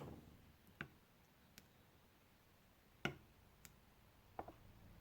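A handful of faint, irregular clicks and light knocks, about six in all, against near silence.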